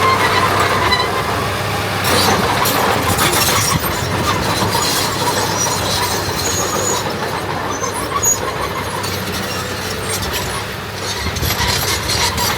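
Diesel engine of heavy earthmoving machinery running steadily under load, with metallic clanks and rattling over a low hum.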